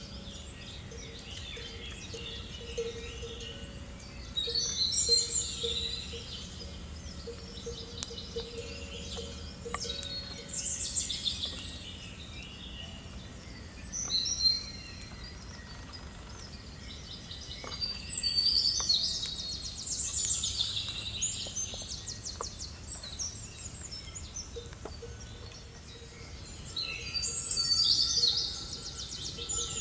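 Birds singing and chirping in several bursts of rapid phrases, over a steady low background hum of outdoor noise.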